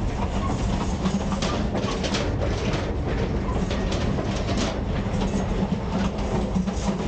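Passenger train running, heard in the gangway between two carriages: a steady low rumble of wheels on rail with a constant hum. Irregular sharp clanks and rattles come from the joint between the cars.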